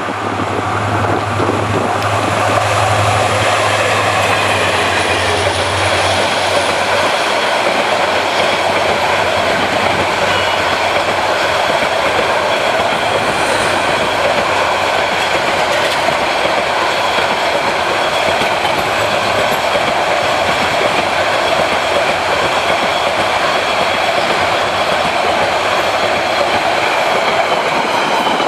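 Express passenger train passing at speed on a curve. A diesel locomotive's low engine hum is heard for the first few seconds, then a long steady rumble and clatter of the coaches' wheels on the rails, with a faint high whine of wheels on the curve.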